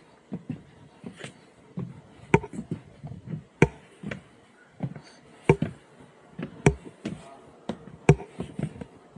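Footsteps of someone walking at a steady pace on a trail, about two steps a second, with a sharper knock on roughly every second step.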